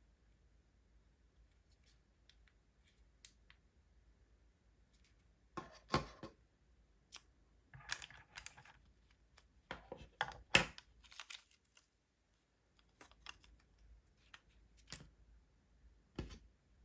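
Handling noise: a scattered series of clicks, taps and short rustles, as of small objects being picked up and moved about.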